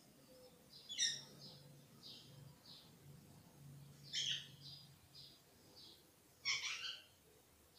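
A bird chirping in short calls. There are louder clusters about a second in, about four seconds in and about six and a half seconds in, with softer single chirps between them.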